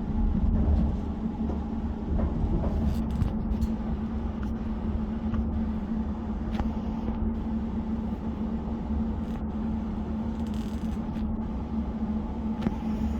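Inside a passenger train carriage: the train's steady low rumble with a constant hum, and a few faint clicks and knocks.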